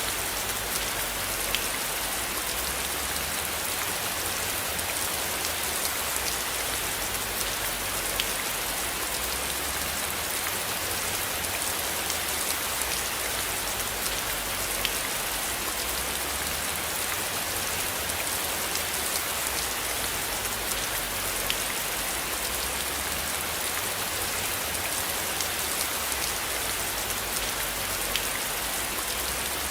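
Steady rain falling, an even hiss with scattered individual drop ticks, over a low rumble.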